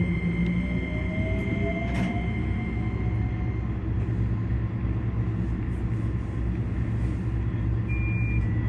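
Keikyu electric train running slowly after pulling away, with a steady low rumble. A faint motor whine rises in pitch over the first few seconds as it gathers speed, and there is a single click about two seconds in.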